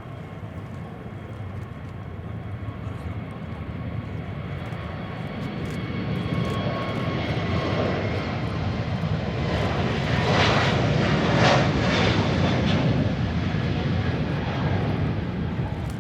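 Airbus A321neo airliner taking off under full engine power, a rushing jet roar with a faint whine that grows louder as it passes, loudest about two-thirds of the way in, then easing slightly.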